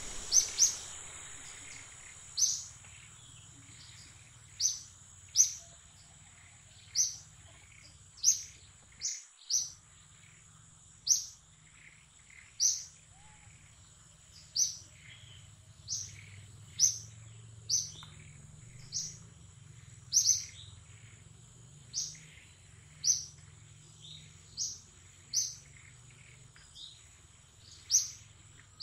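A bird repeating a short, sharp, high chirp roughly every one to two seconds, over a faint steady high-pitched tone.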